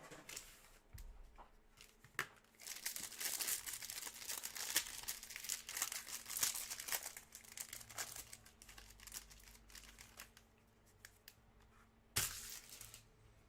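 Plastic wrapper of a 2021 Panini Mosaic football trading card pack crinkling and tearing as it is opened by hand, in irregular crackles that are busiest in the middle, with a short louder crackle near the end.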